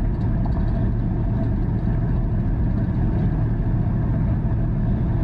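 Inside the cabin of a Mercedes W124 wagon powered by a turbocharged 5.7-litre GM LS1 V8, cruising steadily at about 1,700 rpm and 100 km/h: an even engine drone mixed with road and wind noise.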